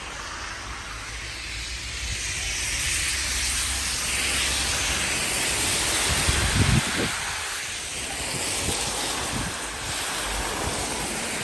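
Wind gusting outdoors in winter weather, a steady rushing hiss that swells and eases, with low thumps of wind buffeting the microphone, strongest about two-thirds of the way through.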